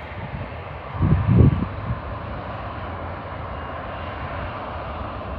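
Jet airliner engine noise, a steady rushing hum, with a brief louder low rumble about a second in.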